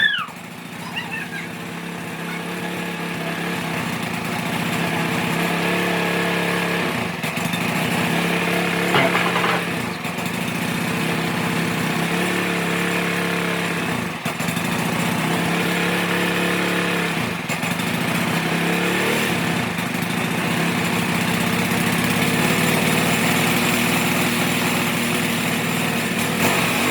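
Small single-cylinder go-kart engine running steadily on its freshly cleaned carburetor, a fairly high-pitched buzz that dips briefly in speed a few times.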